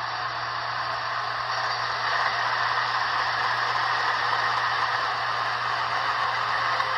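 Sound decoder of an N-scale Broadway Limited RSD-15 model diesel locomotive, a Paragon 4, playing its diesel engine sound through the model's small speaker. It comes out as a steady hissy rattle over a low hum.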